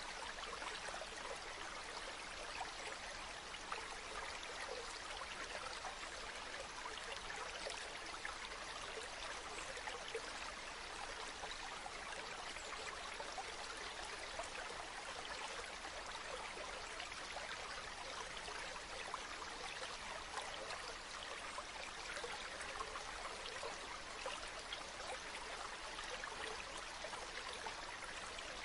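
Running water from a small spring-fed stream, trickling and splashing steadily without let-up.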